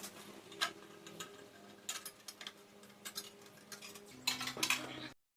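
Scattered metallic clinks and clicks of hand tools and parts being handled while stripping a garden tractor's motor, with a busier cluster near the end; the sound then cuts off suddenly.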